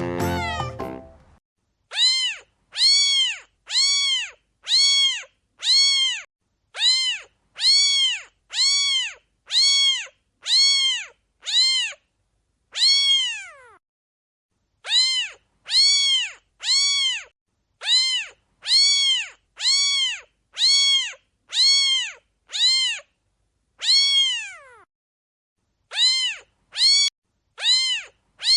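A domestic cat meowing over and over: the same short meow, rising then falling in pitch, repeated at an even pace of a little over one a second, with two short pauses. Background music fades out in the first second or so.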